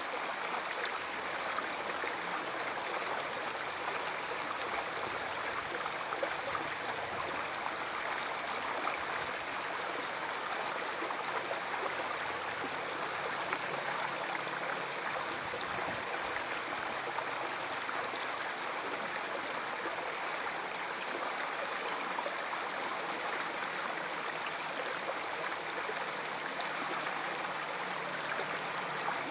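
A river stream flowing: a steady, unbroken sound of running water.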